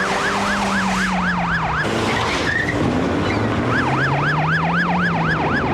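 Police car siren on a fast yelp, wailing up and down about four times a second. It breaks off for about a second and a half around two seconds in, then starts again.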